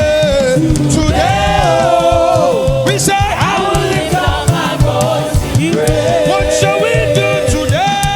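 Gospel choir singing a praise song with band accompaniment: held, bending vocal lines over a busy drum-and-bass beat.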